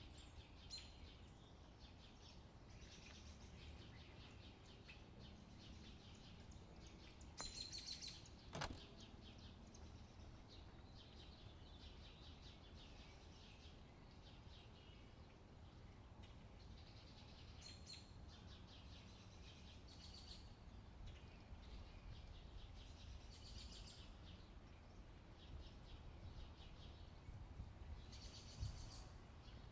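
Faint bird chirps and trills coming in short clusters every few seconds over a low wind rumble, with one sharp click a little over eight seconds in.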